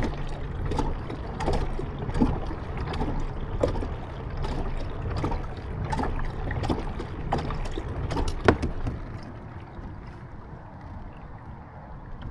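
Kayak paddle strokes: the blades dip and splash about every three-quarters of a second over a low wind rumble on the microphone, with one sharp knock about eight and a half seconds in. The strokes stop near the end and it turns quieter.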